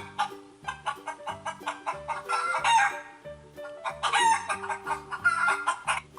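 Chicken calls: a rooster crowing and clucking in two loud bouts, over background music with a steady beat.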